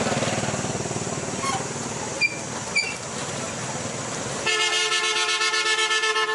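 A vehicle engine runs, then a vehicle horn gives one long, buzzy honk starting about four and a half seconds in.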